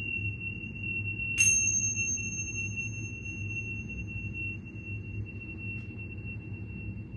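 A steady high-pitched ringing tone held over a low rumble, with one bright metallic ping about a second and a half in.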